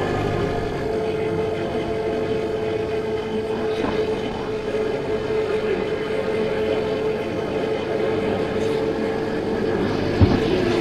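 50cc scooter engine running at a steady cruising speed, one steady engine note over road noise. A single short knock near the end.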